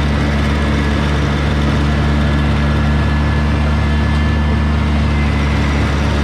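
Kubota BX2200 compact tractor's three-cylinder diesel engine running steadily at raised throttle while driving a rear PTO tiller through garden soil.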